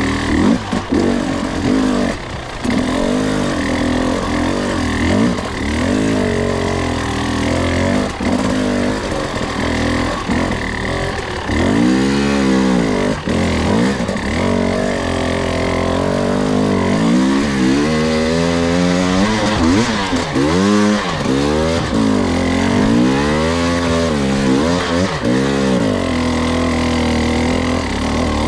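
Two-stroke enduro dirt bike engine under way, its pitch repeatedly rising and falling as the throttle is opened and closed.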